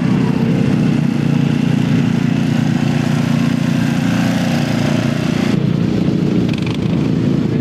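Lawn mower engine running with a steady low drone. About five and a half seconds in, the higher hiss drops away abruptly while the drone carries on.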